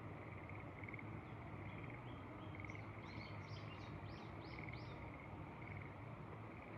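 A small songbird sings one phrase of quick, rising-then-falling notes, about three a second, from about a second and a half in to about five seconds in. Under it a steady chorus of pulsed trilling calls repeats throughout over a low rumble of wind.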